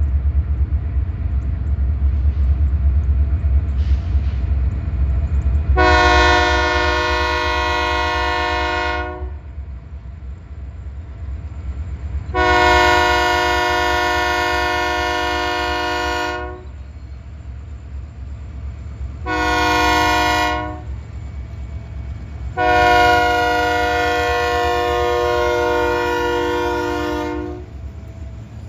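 Freight locomotive's multi-chime air horn blowing the grade-crossing signal: two long blasts, one short and a final long one, the standard warning for a road crossing. Under it runs a steady low rumble.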